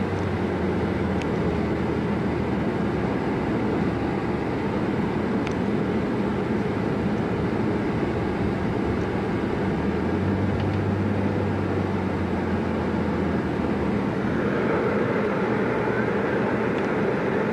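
Engine and road noise of a moving vehicle, heard from inside it: a steady rumble with a low hum that shifts in pitch now and then.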